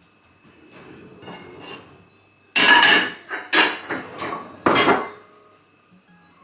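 Kitchen utensils clattering against dishes: quiet handling, then three loud clanks about two and a half, three and a half and nearly five seconds in.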